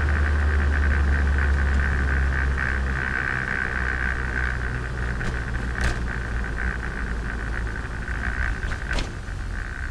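Turbocharged Nissan Micra engine idling, heard from on board, as a steady low drone that eases off about three seconds in. A steady higher-pitched tone runs alongside it, and there are a couple of short clicks later on.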